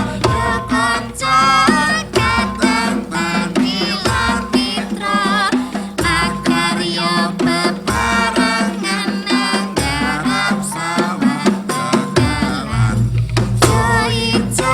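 Javanese gamelan ensemble playing: struck bronze instruments and drum keep a steady pulse under low ringing notes, with a singing voice wavering over the top.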